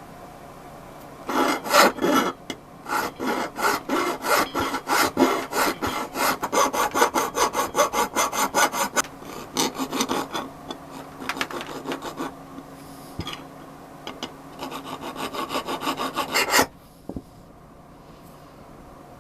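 Rapid back-and-forth strokes of an abrasive worked by hand, about four strokes a second. There is a short lull partway through, then the strokes resume and stop abruptly near the end.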